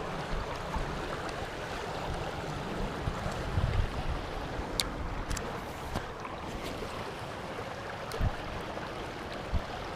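River water flowing steadily, with wind on the microphone, and a few brief sharp clicks about halfway through and near the end.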